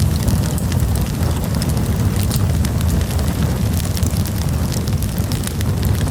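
Campfire burning: wood crackling and popping in quick, irregular snaps over a steady low rumble of the flames.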